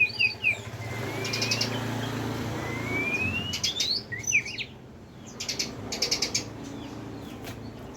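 White-rumped shama (murai batu) in full song: clear whistled notes, two slow rising whistles, and bursts of dry rapid clicking rattles, the heaviest run of rattles about two-thirds of the way in.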